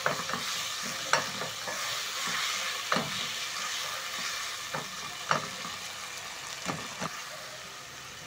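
Onions, carrots, tomatoes and tomato paste sizzling in oil in a granite-coated pot while a wooden spoon stirs them, with about seven sharp knocks and scrapes of the spoon against the pan. The sizzle grows slightly quieter toward the end.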